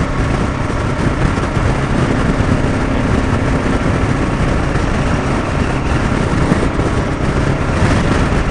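Steady engine, road and wind noise of a motorcycle riding along, with no change in pace.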